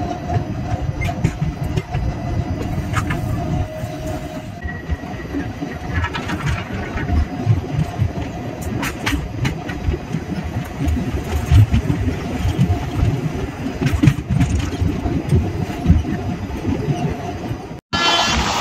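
Old ICF passenger coaches of an express train running on the rails, heard from on board. A continuous rumble with irregular clicks from the wheels over rail joints. The sound drops out briefly near the end.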